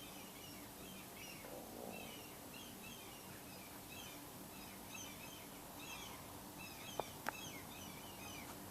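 Birds calling in a steady chatter of many short, high chirps over faint background hiss. Two sharp clicks come close together about seven seconds in.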